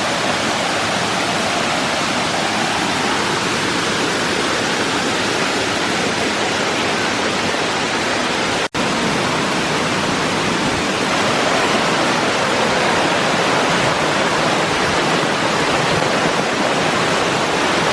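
Large waterfall in high flow after heavy rain: a loud, steady rush of falling water that breaks off for an instant about nine seconds in.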